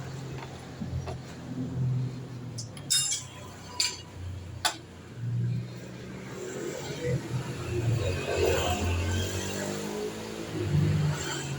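Three sharp metallic clinks of workshop tools, about a second apart, during work on a motorcycle shock absorber, over low voices in the background.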